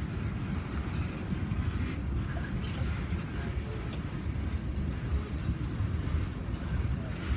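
Steady low rumble of a vehicle running, even in level throughout.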